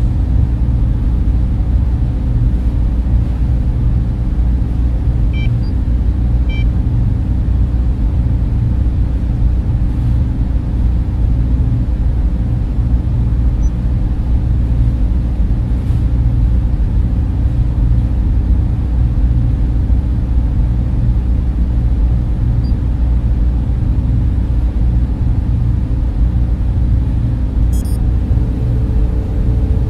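Server room cooling fans running: a steady, deep hum and rush with no change in speed.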